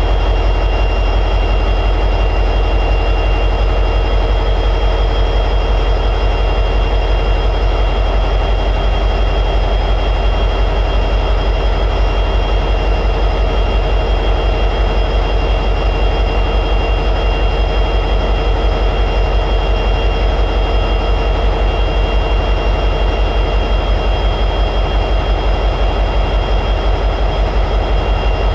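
EMD 710G3B 16-cylinder two-stroke diesel prime mover of an SD60E locomotive running steadily at high idle, a fast even low pulsing with a steady high whine over it.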